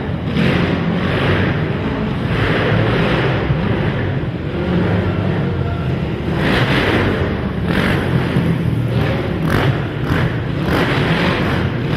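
Racing ATV (quad) engines running hard, revving up and backing off over and over as several quads ride the track, with a few sharp rev surges near the end.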